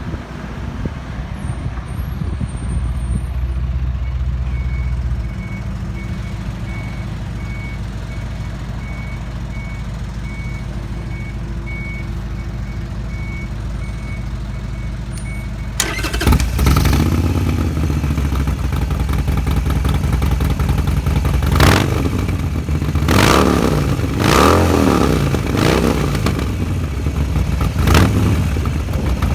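A steady low rumble with a regular high-pitched beep about twice a second. Then, about halfway through, the 2018 Harley-Davidson Sportster Roadster's 1200 cc air-cooled V-twin with an RSD aftermarket exhaust comes in much louder, idling and revved sharply several times.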